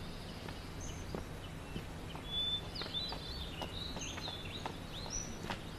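Small birds chirping in quick short calls, some rising and some falling, thickest in the middle stretch, over a low steady background hum.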